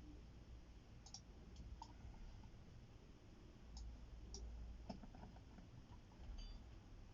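Near silence with a low hum and a few faint, scattered small clicks and taps, like handling noise on a workbench.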